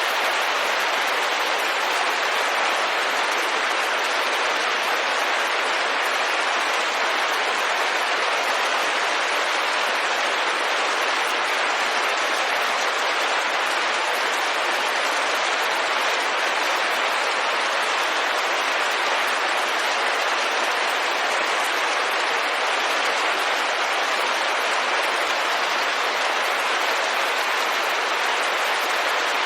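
Rain falling on a window, a steady, even hiss that holds the same level throughout.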